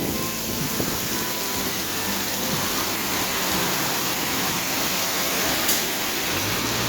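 Heavy rain pouring down in a steady hiss, with a low hum coming in near the end.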